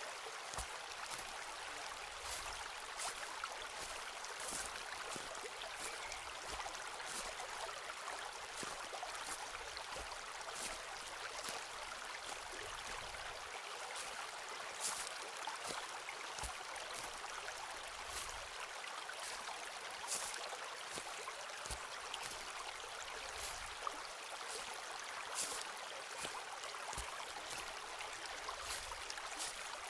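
Footsteps walking along a forest path, short crunching steps at an uneven pace, some with a soft low thud, over a steady rush of running water.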